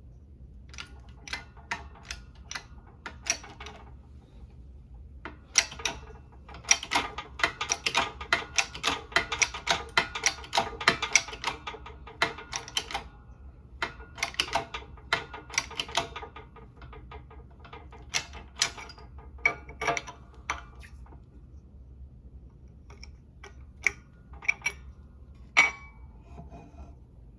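Hand ratchet wrench clicking in runs of quick strokes, busiest about a quarter of the way in, with short pauses and a few single clicks between.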